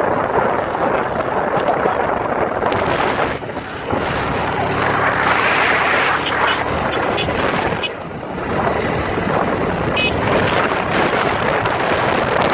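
Motorcycle engine running on the move, heard under heavy wind buffeting on the microphone; the overall sound dips briefly twice.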